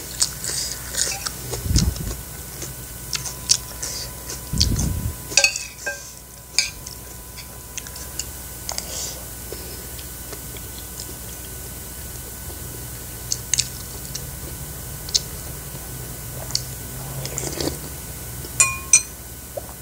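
Close-up chewing of food, with crisp clicks in the first few seconds and two soft low thumps. Near the end, a metal spoon clinks a couple of times against a ceramic soup bowl.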